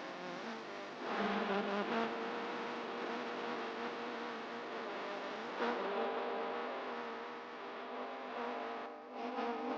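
A voice chanting Quranic recitation in long, held melodic notes with wavering ornaments on the sustained tones.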